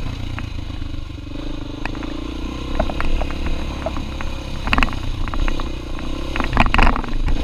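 Dirt bike engine running steadily at low revs, with scattered sharp knocks and a burst of clattering and scraping about five and seven seconds in as the bike moves over rough ground.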